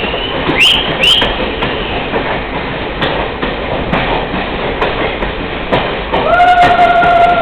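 Passenger train running on rails, heard from on board: a steady rumble with wheel clicks, two brief rising squeals about a second in, and a long steady tone starting near the end.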